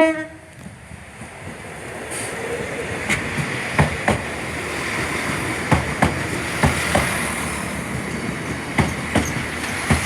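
Northern Ireland Railways Class 4000 diesel multiple unit passing. Its steady running noise builds over the first couple of seconds, and the wheels click over the rail joints, mostly in pairs.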